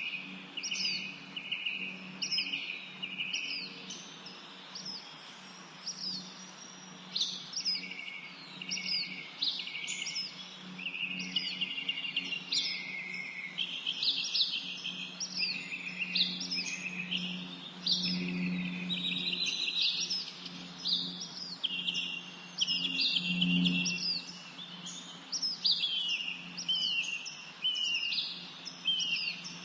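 Birds calling repeatedly: high chirps and short down-slurred notes about once a second, mixed with brief buzzy trills. A steady low hum runs underneath.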